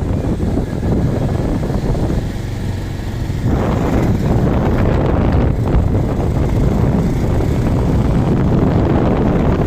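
Wind rushing over the microphone of a moving bike, mixed with the bike's running noise as a steady roar. It dips briefly about two to three seconds in, then picks up again with more hiss.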